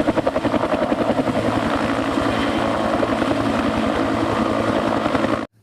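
Helicopter rotor sound effect for a toy combat helicopter: a fast, even chopping beat that cuts off abruptly near the end.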